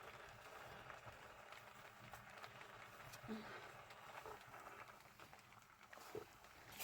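Near silence: a faint hiss with a few soft clicks and knocks, and a short faint voice-like sound about three seconds in.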